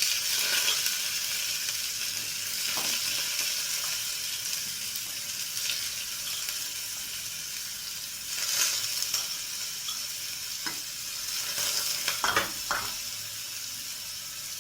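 Food frying in hot ghee in a pressure cooker: a steady sizzle, with a few clinks and scrapes of a spoon stirring the pot.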